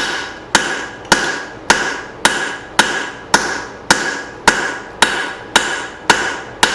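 Steady hand-hammer blows on hot leaf-spring steel, about two a second, each with a short metallic ring, drawing out and widening the blade of a forged hatchet head.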